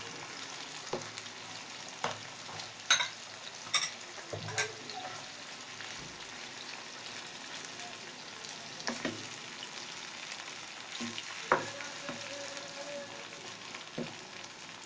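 Minced mutton with onions, tomatoes and green chillies sizzling in hot oil in a non-stick frying pan, stirred with a spatula that knocks and scrapes against the pan now and then.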